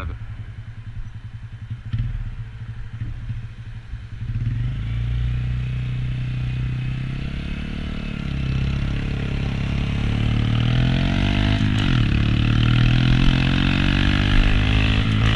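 Honda Grom's single-cylinder engine running low at first, then picking up revs about four seconds in. Near the end its pitch drops and climbs again, as through a gear change.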